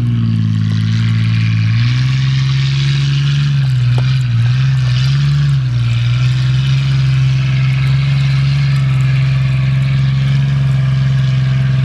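Vehicle engine running hard at steady high revs, its pitch stepping up about two seconds in, rising and falling a few times a little later, then holding steady, over a constant hiss.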